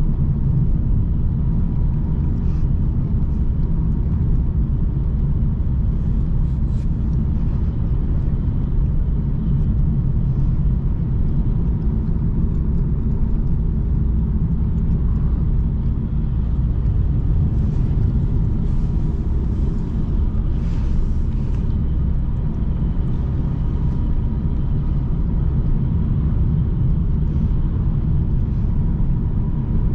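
Car driving along a road: a steady, low rumble of engine and tyre noise, with a faint steady whine and a few faint ticks partway through.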